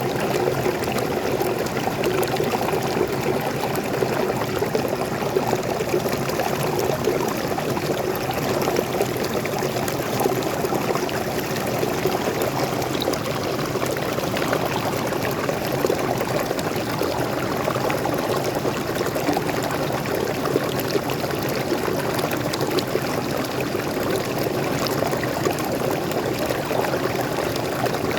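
Water of a small forest waterfall pouring and splashing in a steady, unbroken rush, fuller in the mid and low-mid range than in the highs.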